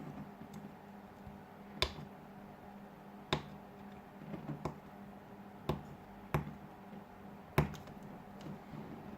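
Sharp clicks and taps of small tools and parts being handled while a phone is taken apart: five louder clicks spaced one to two and a half seconds apart, with a few fainter ones between, over a steady low hum.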